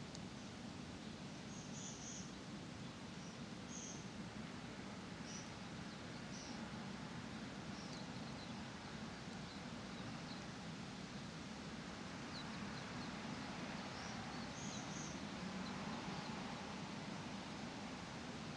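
Park ambience: a steady low background hum with small birds giving short, high chirps at scattered intervals.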